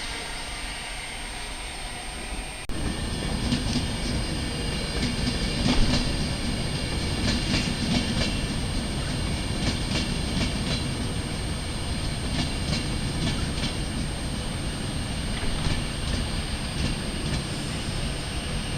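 A passenger train running past, a steady rumble with clusters of sharp wheel clicks over rail joints. The sound starts abruptly a few seconds in.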